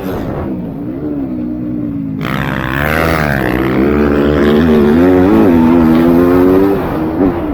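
MX2 motocross bike engines revving up and down in quick cycles through throttle and gear changes on the track, with one bike passing close about three seconds in.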